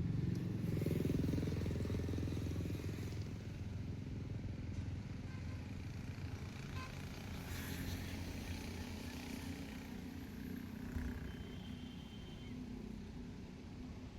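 A vehicle engine running with a steady low hum, loudest in the first few seconds and then slowly fading.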